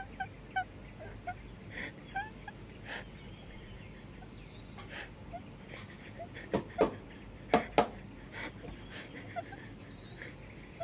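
Scattered short bird calls, mostly in the first few seconds, with a few sharp knocks; the loudest knocks come in a cluster about two-thirds of the way in.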